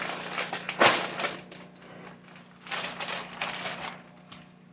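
Corn chips crackling and rattling as they are taken out of a crinkly bag, loudest about a second in, with another stretch of crackling about three seconds in.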